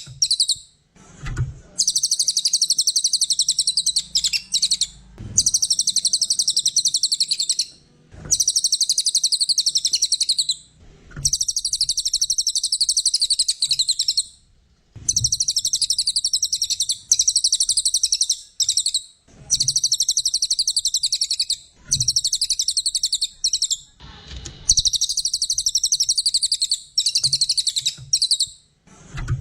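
Cililin coklat songbird singing in rapid, high-pitched chattering phrases of about two to three seconds each, repeated again and again with short breaks. Soft low knocks fall in several of the breaks.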